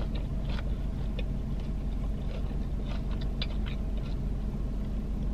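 Soft, scattered clicking mouth sounds of chewing a fried mozzarella stick, over a steady low hum inside the parked car.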